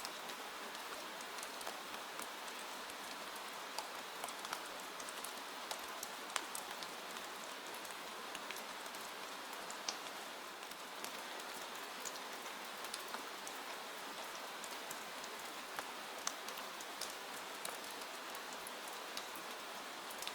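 Steady rain falling, an even hiss with many scattered sharp drop-like ticks.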